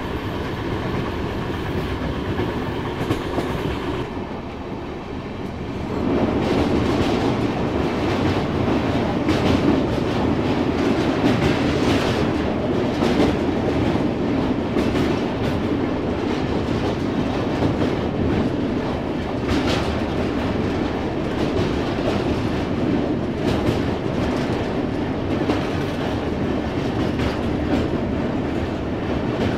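Gatimaan Express passenger train running at speed: a steady rumble of wheels on the rails with frequent clicks. About six seconds in it grows louder and heavier as the train rolls onto a steel truss bridge.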